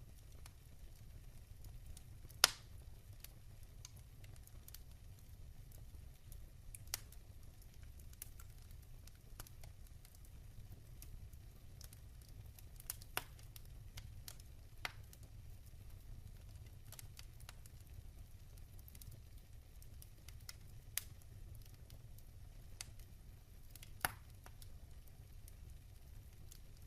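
Wood fire burning in a fireplace, crackling with sparse sharp pops over a low steady rumble; the loudest pop comes about two and a half seconds in, with another strong one near the end.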